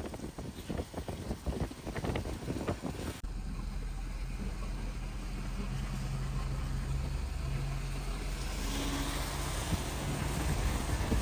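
Wind buffeting the microphone in irregular gusts, then after an abrupt cut, a vehicle running along with a steady low engine drone and a rising hiss toward the end.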